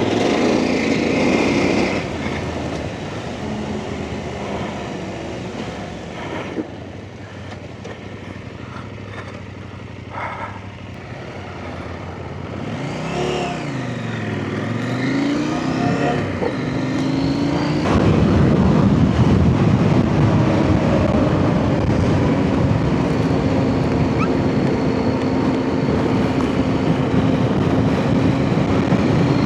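Off-road motorcycle engine running under way, with a rush of noise around it. Around the middle the revs swing up and down several times, and from about two-thirds through it runs louder and steadier at a higher pitch.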